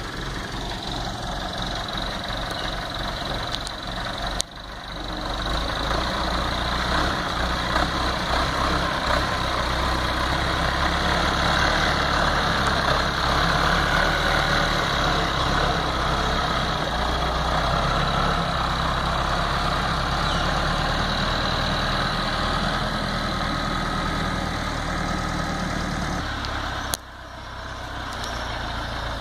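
Tractor engine running steadily. The sound drops away sharply twice, once about four seconds in and once near the end, then comes back.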